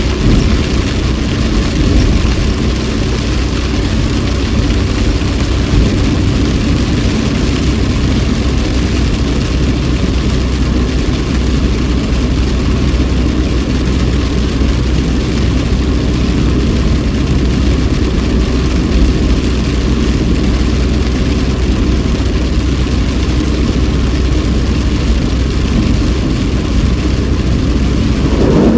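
Steady car cabin noise while driving in heavy rain: a constant low engine hum under an even hiss of tyres on a wet road and rain.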